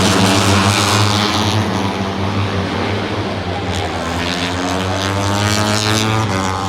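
A pack of Moto3 racing motorcycles, 250 cc single-cylinder four-strokes, running at high revs. Several engine notes rise in pitch together as the bikes accelerate.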